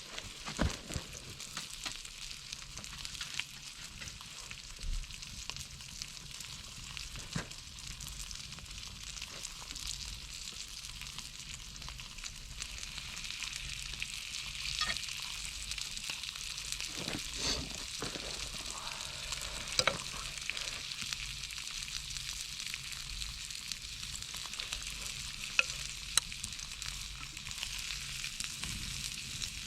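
Venison spare ribs sizzling over charcoal on a shichirin grill: a steady fat-spitting hiss with scattered sharp pops.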